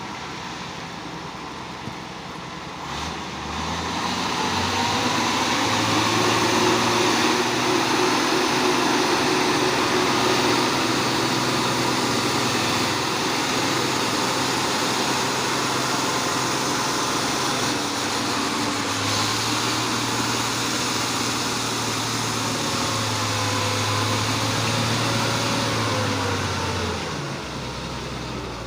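Truck engine revving up about three seconds in and held at high revs with small rises and falls in pitch, dropping back near the end.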